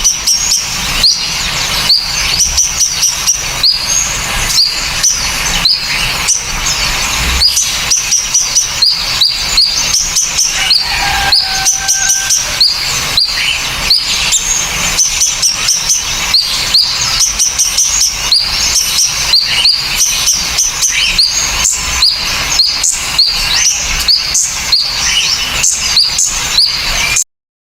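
Songbirds calling in a rapid, dense stream of sharp rising chirps, several a second, with clicking notes mixed in; the recording cuts off suddenly near the end.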